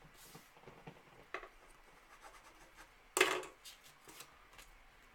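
Trading cards being handled on a table: light rubbing and scratching with small clicks, and one louder short scraping rustle about three seconds in.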